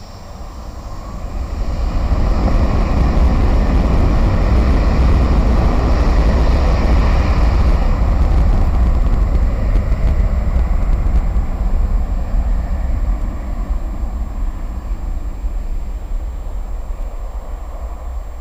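Jet airliner passing close by, its engine noise building over about two seconds, staying loud for several seconds, then slowly fading away.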